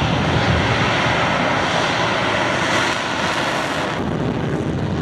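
F-15SG fighter jet engines running loud, a broad even roar that eases a little after about three seconds.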